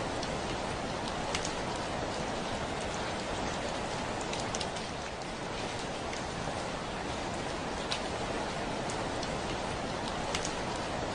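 Steady heavy rain, a constant hiss with scattered sharp drop ticks on a window.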